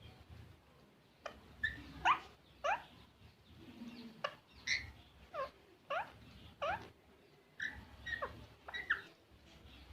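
Green parrot giving a series of short, sharp chirps, most sliding up in pitch, about a dozen over several seconds.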